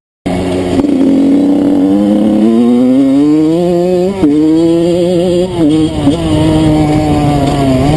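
Enduro dirt bike engine running under way. Its pitch climbs over the first few seconds as the bike accelerates, then holds fairly steady, with brief dips of the throttle about four and five and a half seconds in.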